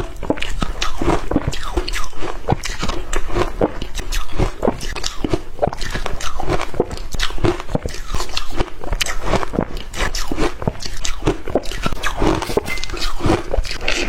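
Shaved ice being bitten and chewed, with dense irregular crunching that never lets up.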